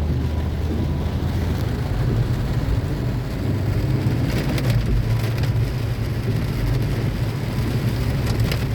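Heavy rain pouring steadily, with a constant deep low rumble underneath.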